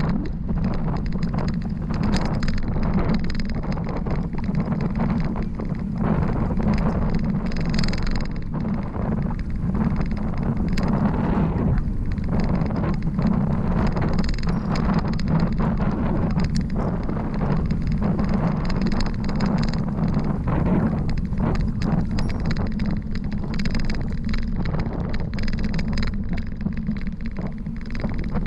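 Wind rushing over the microphone of a riding bicycle, a steady rumble with frequent small clicks and rattles from the bike and road.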